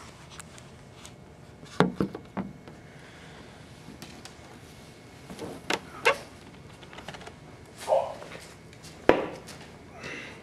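Scattered knocks and clunks of objects being handled and set down, the sharpest about nine seconds in, with a brief squeak near eight seconds.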